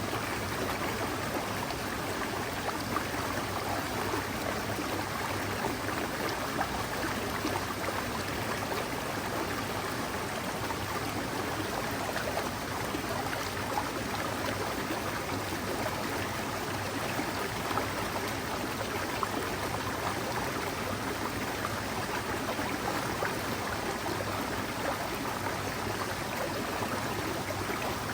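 A mountain stream's water running steadily, an even rushing and gurgling that never lets up.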